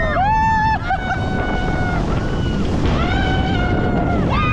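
Rushing wind and water noise of a moving motorboat, a steady low rumble, with people's voices calling out in long, drawn-out held notes several times over it.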